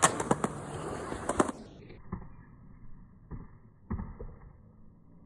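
Skateboard rolling on concrete with a rapid series of sharp clacks from the trucks and deck striking the ramp for about the first second and a half. Then the sound drops away suddenly, leaving a few faint knocks.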